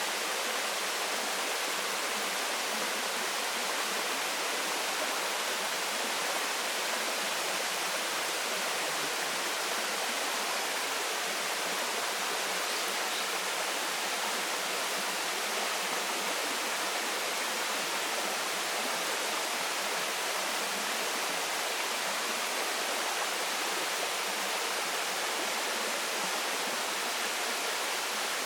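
Waterfall pouring steadily into its stream, an even, unbroken rush of falling water.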